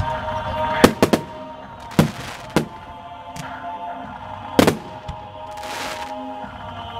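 Aerial fireworks shells bursting in a string of sharp bangs, some in quick pairs, with a spell of hissing crackle a little before the end, over music playing throughout.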